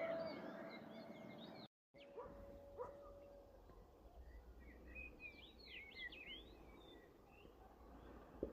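Faint birdsong: scattered short chirps and twitters over a quiet outdoor background, busiest a little past the middle. The sound drops out completely for a moment about two seconds in.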